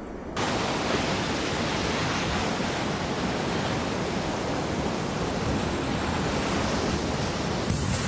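Steady, loud rushing of storm wind and water that cuts in abruptly just after the start, with no single event standing out.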